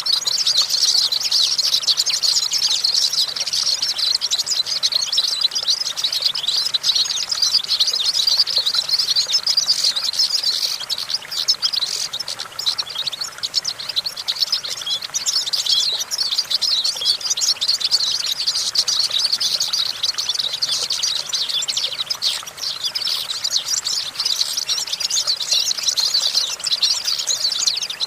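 European goldfinch singing a long, unbroken song of rapid twittering and trills, easing slightly about halfway through.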